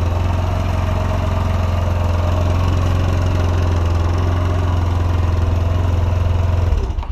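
Yamaha Majesty 125 scooter's single-cylinder four-stroke engine idling steadily with an even, low exhaust note, then stopping near the end.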